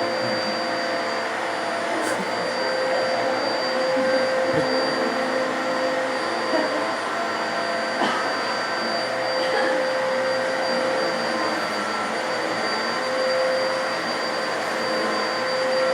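Vacuum cleaner running steadily, a constant motor noise with a high whine, with a few faint knocks as it is pushed around.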